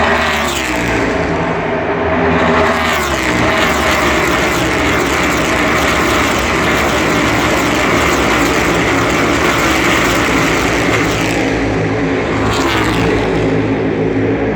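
NASCAR Cup Series stock cars' V8 engines passing at racing speed, a continuous engine howl with the pitch dropping as each car goes by. Single passes come near the start and again about thirteen seconds in, with a dense pack of cars streaming through in between.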